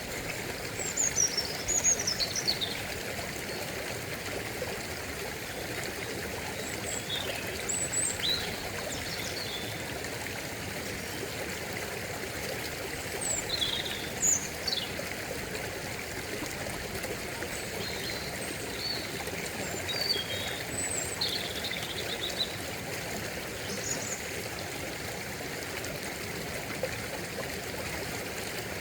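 A stream running steadily over rocks, with short high bird chirps breaking in now and then.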